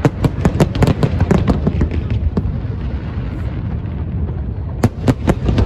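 Aerial fireworks going off: a rapid string of sharp cracks and bangs for about two and a half seconds, a short lull with a low rumble underneath, then a few more bangs near the end.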